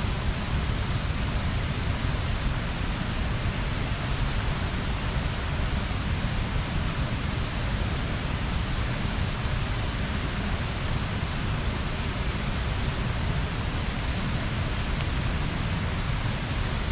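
Bonfire burning: a steady rushing hiss over a low rumble, with a few faint crackles.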